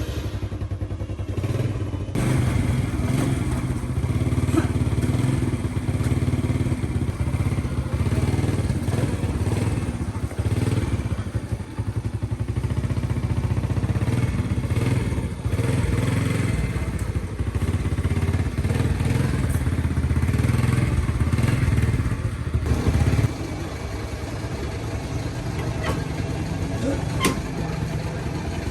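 A vehicle engine running steadily at raised revs, then dropping to a lower idle about three-quarters of the way through.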